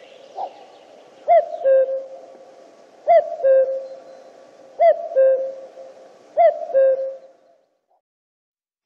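Male common cuckoo calling its two-note "cu-coo", a higher note dropping to a lower one, four times at an even pace about every second and a half, stopping near the end.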